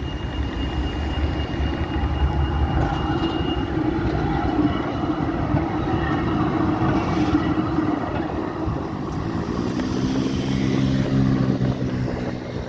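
A Rotterdam tram running by on street track, with steady rolling noise. A thin high tone fades out a few seconds in, and near the end a low motor hum swells and dies away.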